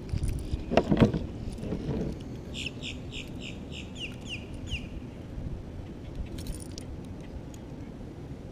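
A bird calls a quick run of about nine short, falling notes, some four a second. A thump comes about a second in, with a lighter one a second later.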